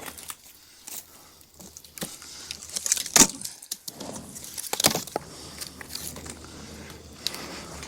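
Split firewood pieces knocking and clattering against each other as they are handled and stacked. There are a few sharp knocks, the loudest about three and five seconds in, over a faint steady low hum.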